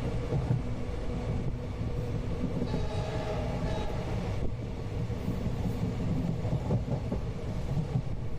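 Indian passenger train running, heard from inside a carriage: a steady rumble from the wheels and track. The sound turns briefly brighter from about three to four seconds in.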